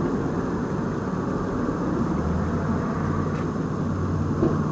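A vehicle engine running steadily, with a low hum that grows stronger about two seconds in.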